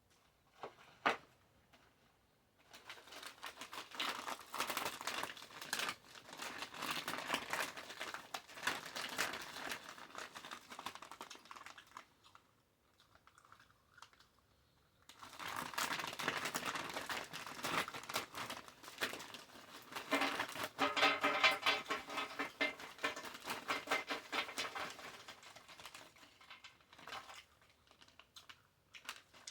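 Close-miked crinkling and crunching from eating a Wendy's bacon cheeseburger, in two long stretches of roughly ten seconds each with a short pause between. There is a single sharp click about a second in.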